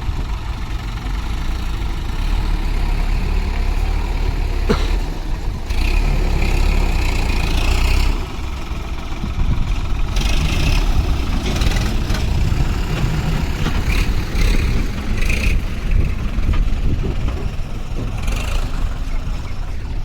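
Heavy diesel engine of a farm or construction machine running under load, a steady low rumble, with short high-pitched squeals several times and a sharp click about five seconds in.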